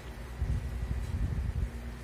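A man chewing a mouthful of food with his mouth closed: soft, irregular low thuds with no voice.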